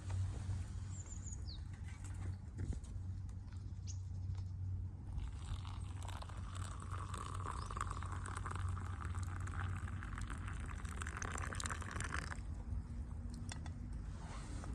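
Wood fire crackling and popping in a fire pit during a test burn: scattered sharp pops over a low steady rumble, with a hiss for about six seconds in the middle. A few brief bird chirps early on.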